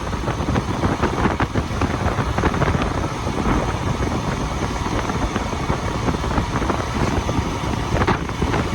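Motorcycle engine running while riding along a road, with wind buffeting the microphone.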